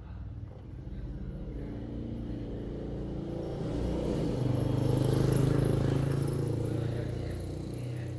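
A vehicle engine passing by, growing louder to a peak about five seconds in and then fading away.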